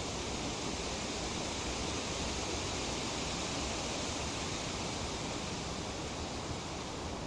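Tree leaves rustling in a steady breeze: an even, continuous hiss that swells slightly midway.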